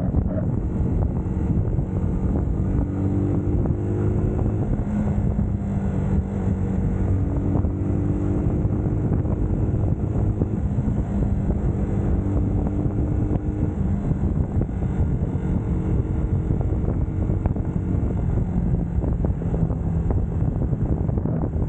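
UM Scrambler X motorcycle engine running on the move, its pitch stepping up and down a few times with the throttle, under wind rushing over the camera microphone.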